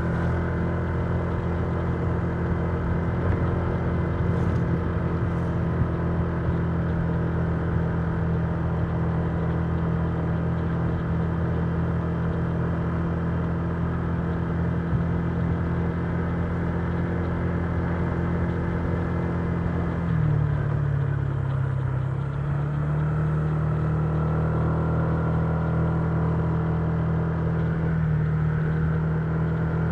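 Honda Giorno 125 scooter's single-cylinder four-stroke engine running at a steady cruise under a haze of wind and road noise. About twenty seconds in the engine note dips briefly as the throttle eases, then climbs back and holds.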